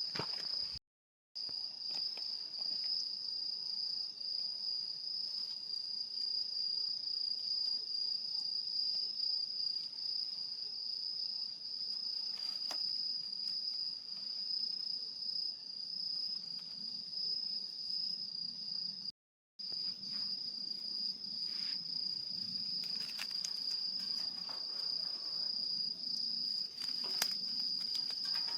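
Night insects, crickets, chirring in one steady, continuous high-pitched trill, with a few faint clicks in the second half. The sound cuts to silence briefly twice, about a second in and again near the middle.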